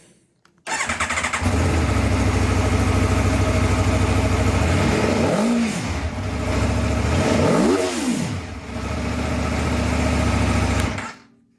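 2022 Aprilia Tuono V4's 1100 cc V4 engine starting up under a second in, then idling with two quick throttle blips, the second higher, and switched off about eleven seconds in.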